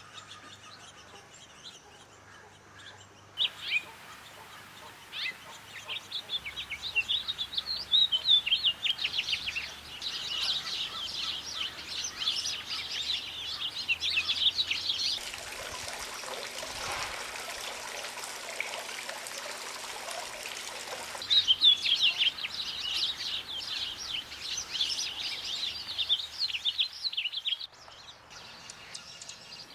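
Small birds chirping and singing in a dense run of rapid, high notes. For several seconds in the middle a steady rushing hiss lies under the calls.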